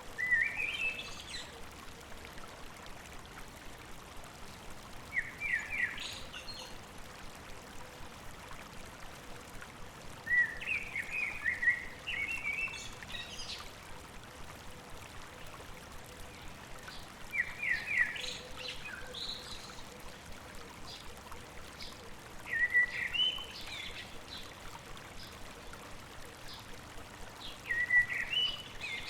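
A songbird sings short phrases of quick notes that climb in pitch, six phrases about five seconds apart, over the steady rush of a flowing stream.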